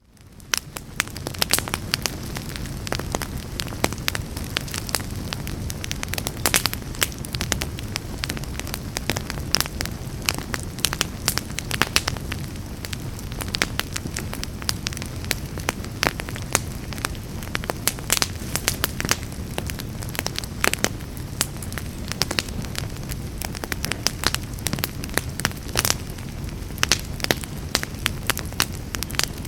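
Fireplace fire crackling, with frequent sharp pops over a steady low rumble of flames. It rises in from a brief silence at the very start.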